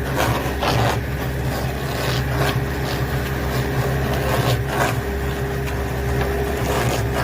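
Heavy stump-removal machine's engine running steadily under load with a steady whine above it, and irregular knocks and cracks of wood and roots breaking.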